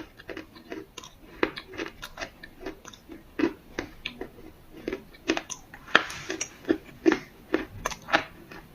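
Dry black clay being bitten and chewed, crisp crunches coming several times a second, with a longer crackle about six seconds in.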